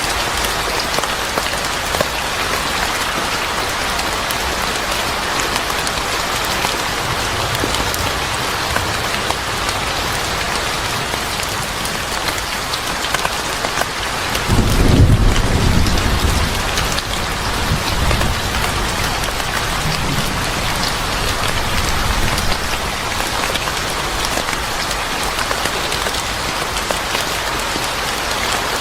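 Steady rain falling on a surface, with a low rumble of thunder about halfway through that lasts a couple of seconds and is the loudest moment.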